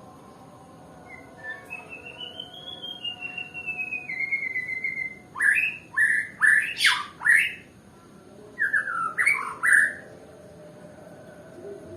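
White-rumped shama (Nias murai batu) singing: a long trilled phrase that rises and then falls in pitch, followed by a run of loud, sharp notes and then a short falling phrase near the end.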